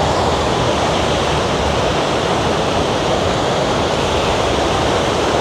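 Ocean surf breaking on a sandy beach: a steady, even wash of wave noise.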